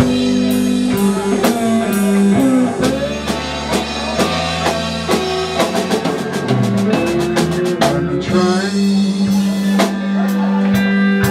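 Live blues band playing an instrumental passage: electric guitar lines over a drum kit keeping a steady beat, with a held bass note underneath.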